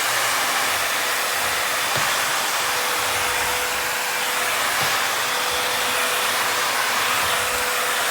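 Bissell 3-in-1 corded stick vacuum running steadily, a loud, even motor and airflow noise with a faint steady tone.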